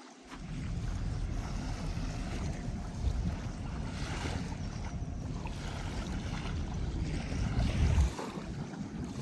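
Wind buffeting the microphone: a low rumble that starts suddenly just after the start and cuts out near the end, over a faint airy hiss.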